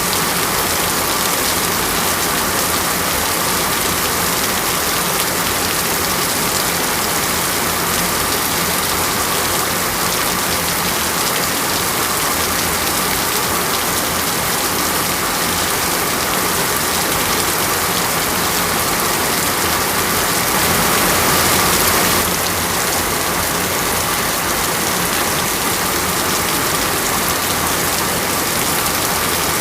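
Steady heavy rain falling. It grows a little louder for about two seconds around twenty seconds in, then drops back suddenly.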